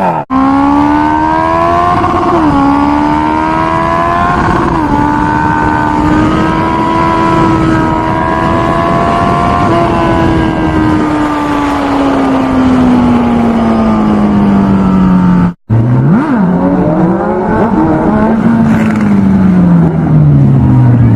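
Sport motorcycle engine at high revs, its pitch held high and steady for several seconds, then falling gradually as the throttle comes off. After an abrupt cut, a second run of engine revving rises and falls.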